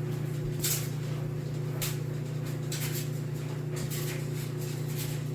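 Steady low hum with a few brief rustling noises scattered through it.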